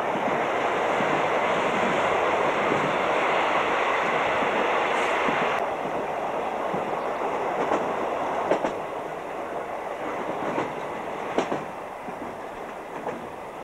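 Narrow-gauge passenger train running along the track with a steady rolling noise that suddenly thins about halfway through, followed by several sharp clicks of wheels passing over rail joints as it grows quieter.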